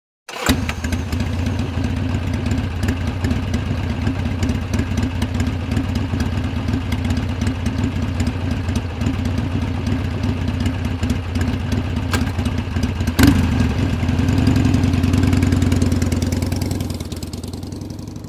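Motorcycle engine idling steadily, cutting in suddenly. There is a sharp click about two-thirds of the way through, the engine swells slightly after it, and it fades out near the end.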